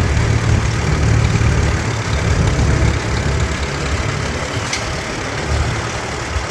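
Antique farm tractor engine running at low speed with a steady, pulsing low rumble, easing slightly after the middle.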